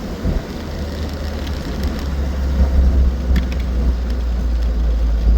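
An Austin 7 Ruby on the move: the steady low rumble of its small side-valve four-cylinder engine and the road noise, with a few faint clicks a little past the middle.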